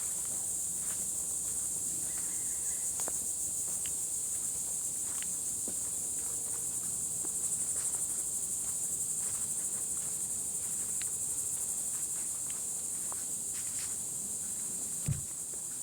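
Steady, high-pitched chorus of insects, with faint scattered footsteps on the trail and a single low thump near the end.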